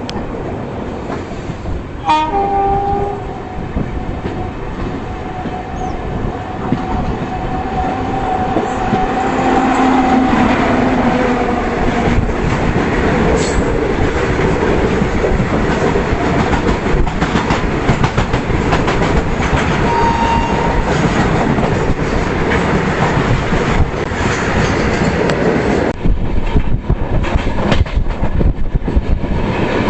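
Indian Railways express train running, with its horn sounding from about two seconds in for roughly ten seconds over a steady rumble. The rumble grows louder partway through, and rail clatter comes near the end.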